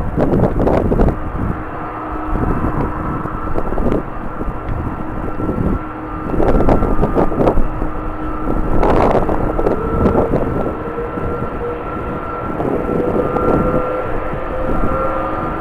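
Jet airliner engines running with a steady whine, one tone slowly rising in pitch over the last few seconds, under heavy gusts of wind buffeting the microphone.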